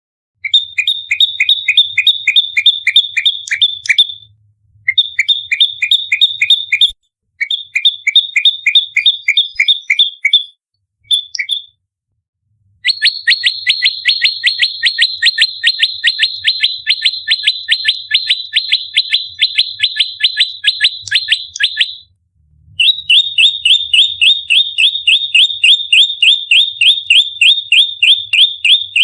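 A prenjak lumut (small Indonesian songbird) giving rapid-fire fighting calls: fast runs of sharp, high chirps at about five a second. Several short bursts with brief pauses come first, then a long run of about nine seconds and another that carries on to the end.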